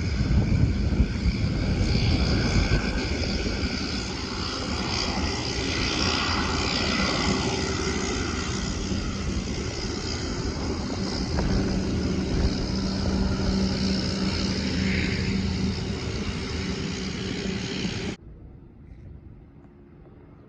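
An aircraft's engines running loud, a steady rush with held whining tones above it, that cuts off abruptly near the end.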